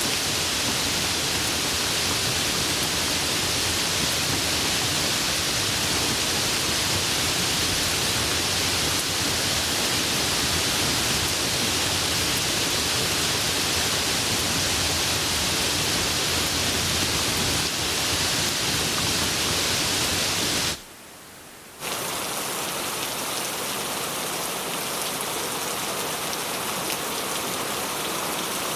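Tropical rain falling steadily and heavily. About two-thirds of the way through, the sound drops out for about a second and comes back as slightly softer rain.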